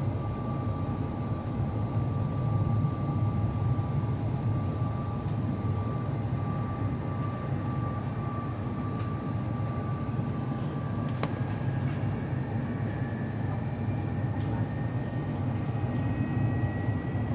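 Steady cabin rumble of an Airbus A350-900 in flight, with the whine of its Rolls-Royce Trent XWB engines heard as steady tones. There is one sharp click about eleven seconds in, and a faint tone rises slowly in pitch over the last few seconds.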